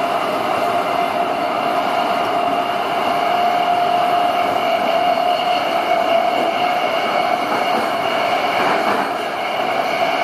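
CityRail electric train running through Woy Woy tunnel, heard from a carriage: a loud, steady rushing rumble with a held whining tone over it.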